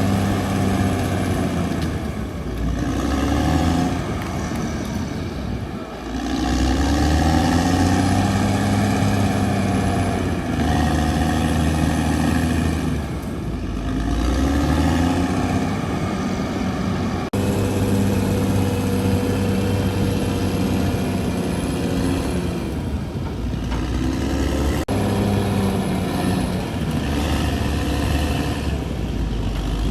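CAT D6R XL bulldozer's diesel engine working under load, its pitch sagging and recovering every few seconds as the blade bites into and releases the ground.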